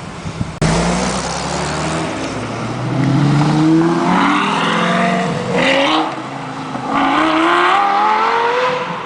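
Exotic sports car engine accelerating hard, its pitch climbing, then dropping sharply at a gear change about halfway through and climbing again.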